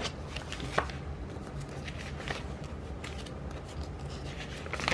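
Paper handling: sticker sheets and planner pages rustling, with scattered light taps and clicks, one sharper click about a second in, over a steady low hum.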